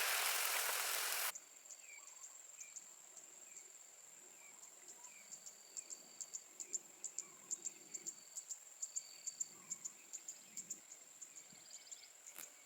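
Insects trilling in a high, steady tone with fast pulses, and a bird repeating a short chirp. A loud hiss at the start cuts off suddenly about a second in.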